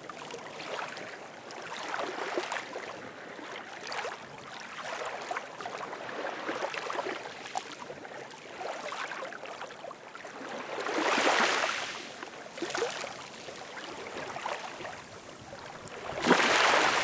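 Ocean waves washing onto a shore: a continuous splashing wash of water, swelling into two louder waves about two-thirds of the way through and near the end.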